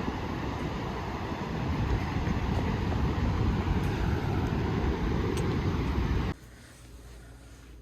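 Steady roar of Niagara Falls, a heavy rushing noise strongest in the low end. It cuts off abruptly about six seconds in, leaving only a faint low hum.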